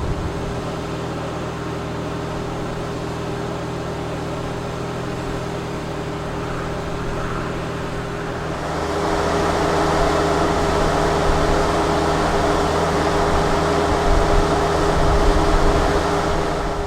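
Lamborghini Gallardo Spyder's V10 engine running at a steady, unchanging pitch. About halfway through, a rushing noise builds and the whole sound grows somewhat louder.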